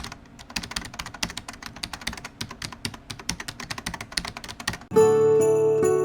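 Rapid, irregular clicks, several a second, then music with steady ringing tones starts suddenly about five seconds in.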